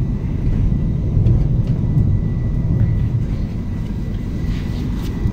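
Steady low rumble of a moving double-deck passenger train heard inside the carriage, with a faint high whine over it.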